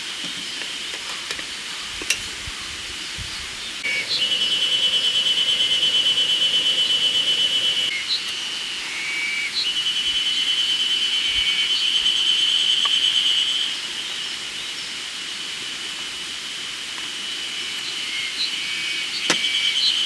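Spring cicadas singing: a steady high buzzing chorus, with a nearer cicada's loud pulsing buzz in long phrases starting about four seconds in, again about ten seconds in, and once more near the end.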